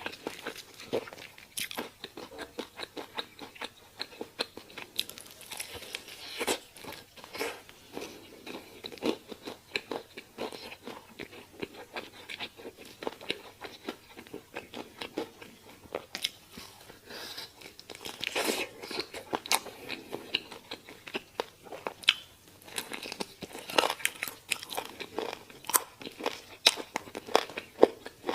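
A person biting and chewing crunchy food close to the microphone: a rapid, irregular run of crisp crunches and mouth clicks.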